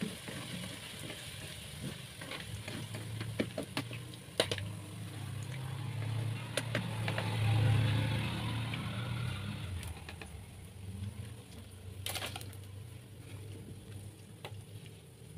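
Half-fried tempeh cubes sizzling lightly in hot oil in a stone-coated wok, with sharp clicks and scrapes of a perforated metal skimmer against the pan as the pieces are lifted out. A low rumble swells to a peak past the middle and fades.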